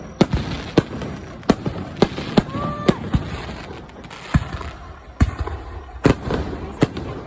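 Fireworks going off: an irregular rapid series of sharp bangs and cracks, several a second.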